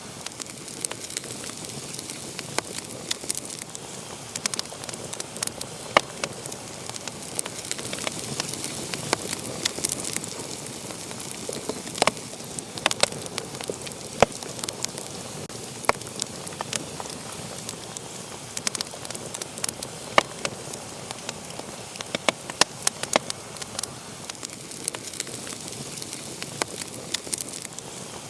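Wood fire crackling, with frequent irregular sharp pops and snaps over a steady hiss.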